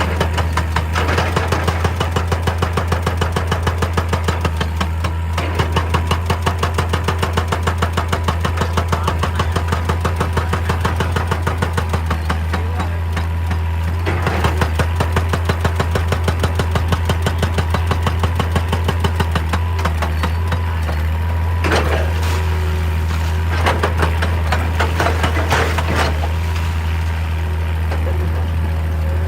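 Heavy excavator diesel engine running steadily with a deep hum and a rapid, regular pulsing beat, with sharp knocks of rock and metal now and then in the second half.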